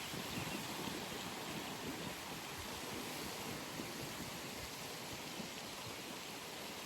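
Steady outdoor pond ambience: an even wash of noise with a soft, irregular low rumble underneath and no distinct events.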